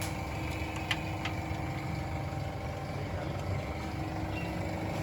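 Toyota GLI's petrol engine idling steadily, with two light clicks about a second in. The mechanic holds the engine's sound to be bad.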